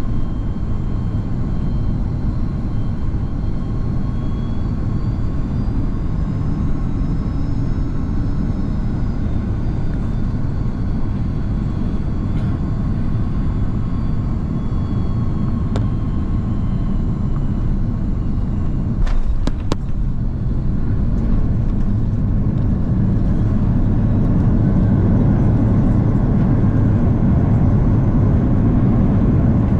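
Airbus A330-200 cabin noise: a steady low roar of engines and airflow, with faint high tones drifting in pitch. About two-thirds of the way through there are two sharp knocks, and the roar then grows louder.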